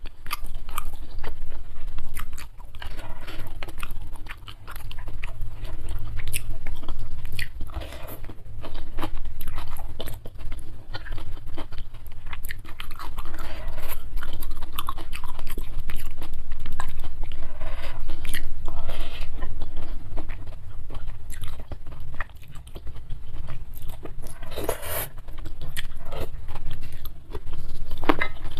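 Close-miked eating sounds: a person chewing a mouthful of fried instant noodles with spicy sardines, with many short wet mouth clicks.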